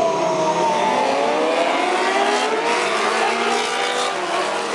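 Several racing superbike engines running at high revs together. Their pitch drops for the first second or so, then climbs again as the bikes accelerate.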